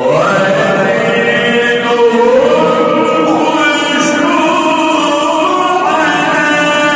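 A male voice in melodic tajweed Quran recitation. It starts abruptly after silence and holds long, ornamented notes that slide between pitches.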